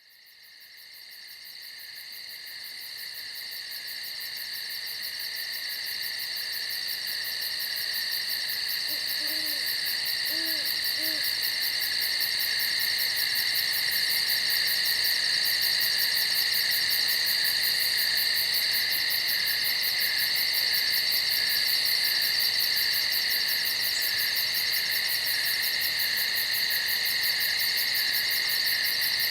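A steady, high-pitched chorus of night insects fades in over the first several seconds and holds on. About nine to eleven seconds in, an owl hoots faintly three times.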